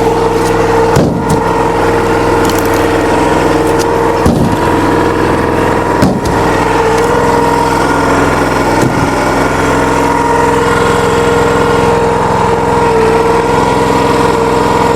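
Log splitter's small gasoline engine running steadily with a constant pitch, with a few sharp knocks from the wood and splitter about one, four and six seconds in.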